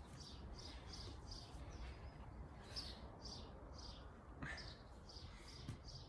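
A bird chirping in quick runs of short, falling notes, about three a second, over a low wind rumble, with one soft knock about four and a half seconds in.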